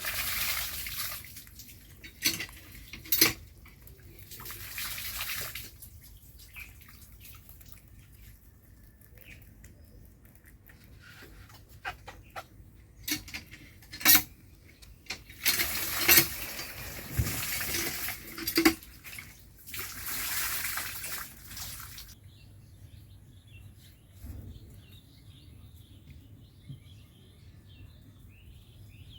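Rabbits chewing and tearing grass close to the microphone: bursts of crisp rustling and crunching a second or two long, with sharp clicks between them. Faint bird chirps in the last several seconds.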